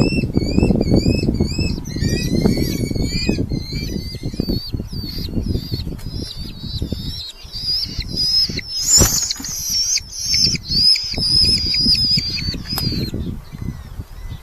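Red-footed falcons calling in the nest box: a rapid run of short, rising, high calls, then a longer, wavering high call in the second half that stops about a second before the end. Loud, uneven low rustling and rumbling runs underneath, with a sharp scrape or knock about two-thirds of the way through.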